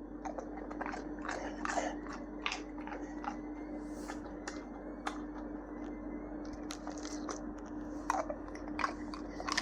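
A bull terrier crunching and chewing a dry biscuit treat, with irregular crisp crunches every fraction of a second.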